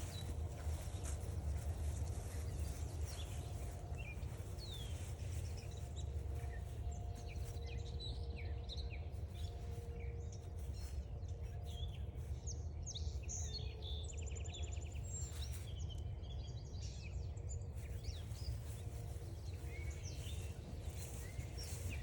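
Several wild birds calling and singing with short chirps, whistles and a rapid trill in the middle, over a steady low rumble.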